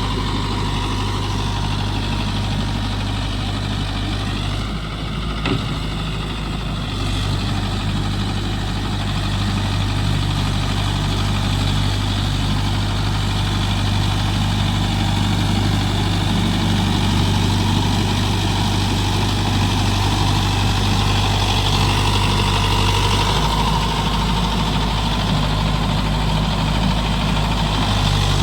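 Mahindra Yuvo Tech+ 585 DI 4WD tractor's diesel engine running steadily while working a rotavator in wet mud.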